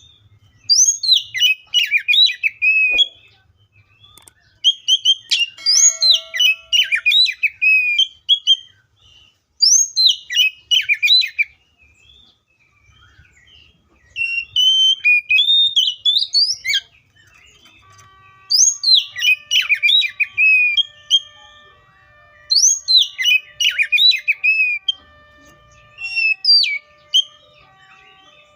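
Oriental magpie-robin singing: about seven bursts of rapid whistled notes that sweep up and down, one burst every three to four seconds with short pauses between.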